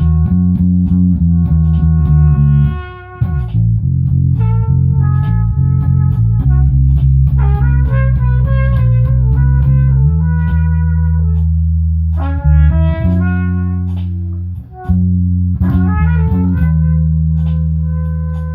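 A band jamming: a loud, steady low bass line under higher melodic notes that change every half second or so. The sound dips briefly about three seconds in and again near fifteen seconds.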